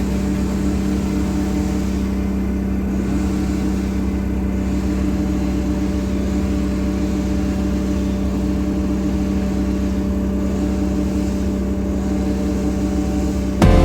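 An engine running at a steady speed, its pitch holding constant throughout.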